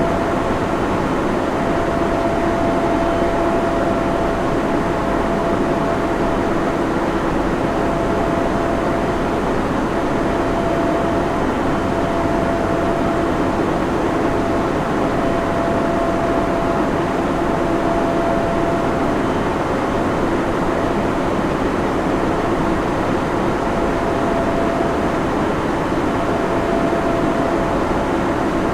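Server room ambience: the steady whir of cooling fans and air handling, with a thin hum tone that fades in and out every few seconds.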